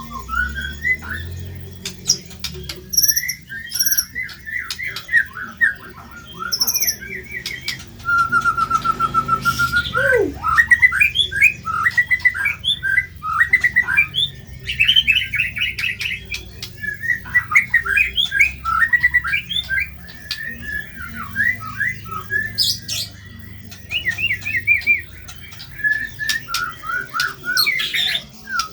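White-rumped shama (murai batu) singing a fast, varied song of short, rough-edged notes in quick runs, the 'materi kasar' of a training recording. About eight seconds in it holds an even rapid trill for some two seconds, which ends in a falling note before the varied phrases resume.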